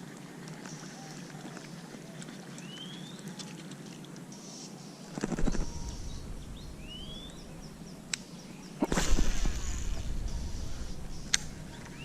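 Outdoor ambience with a bird repeating a short rising chirp about every four seconds. Two louder rustling bursts come about five and nine seconds in, the second followed by a low rumble, and there are a couple of sharp clicks.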